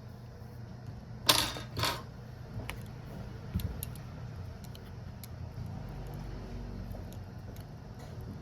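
Small hard tools and phone parts clicking and clattering on a work surface, with two louder clacks in quick succession about a second and a half in and lighter ticks scattered after; a steady low hum underneath.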